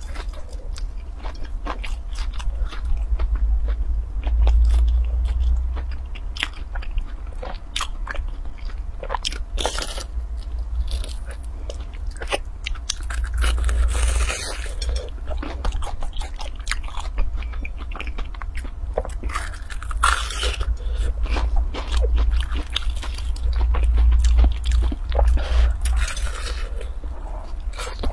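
Close-up biting and chewing of a crisp deep-fried pastry ball: repeated crunches and crackles of the crust as it is bitten and chewed, with a steady low rumble underneath.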